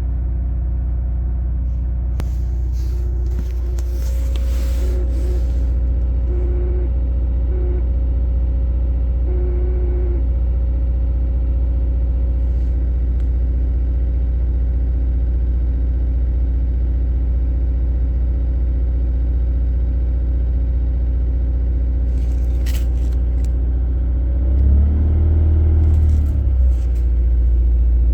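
2018 Subaru WRX's turbocharged flat-four idling after a cold start, in neutral with the clutch engaged. For the first ten seconds or so a tone comes and goes on top of the idle: a noise the owner places inside the manual transmission, since it stops when the clutch is pressed, and suspects is a defective main shaft bearing. About three quarters through, the engine speed briefly rises and falls.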